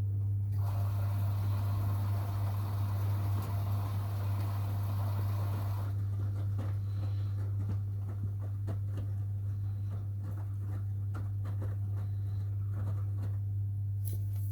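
Washing machines running: a steady low hum, a rushing hiss for the first five seconds or so, then scattered clicks and knocks.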